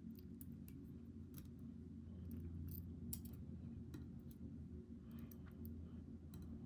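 Scattered light clicks and taps of small metal lock parts, pin tumblers, springs and tools, as the pins are loaded back into a Goal V18 lock body, over a steady low hum.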